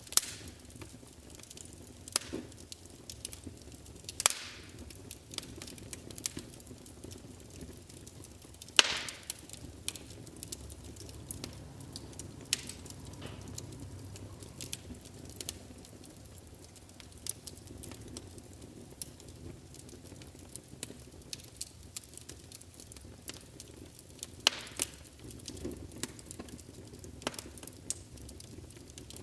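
Wood fire burning in a fireplace: irregular crackles and sharp pops over a low steady hiss, with a few louder snaps about 4, 9 and 25 seconds in.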